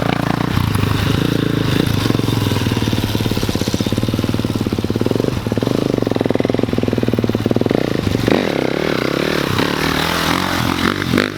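Pit bike engine running close by, its note rising and falling as it is revved, with a brief dip about halfway through.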